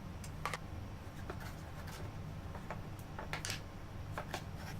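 Faint workshop handling sounds: light clicks and scrapes at irregular intervals, likely from caulking and handling the cyclone lid, over a steady low hum.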